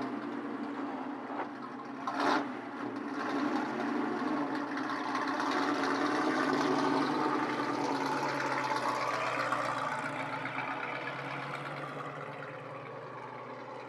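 Vintage straight-eight car engine running as the car comes closer and passes, growing louder over several seconds and then fading away. A brief sharp sound is heard about two seconds in.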